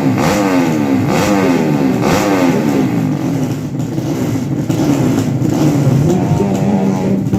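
Drag-racing motorcycle engines revving hard. The engine note climbs in pitch over and over, about once a second, then settles into a steadier high note near the end.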